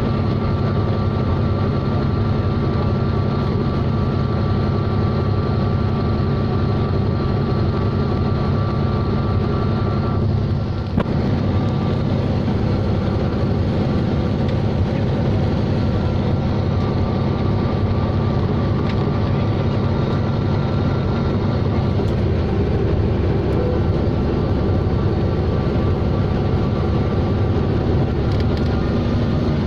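Helicopter running steadily: a constant loud drone of engine and rotor with a low hum and a few steady whining tones, dipping briefly about eleven seconds in.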